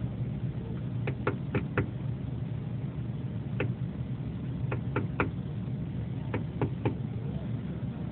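A woodpecker pecking on window glass: sharp taps in short quick runs of three or four, with pauses between, over a steady low rumble.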